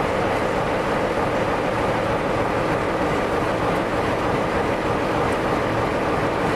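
A train running past, a steady rush of rumbling noise with no single event standing out.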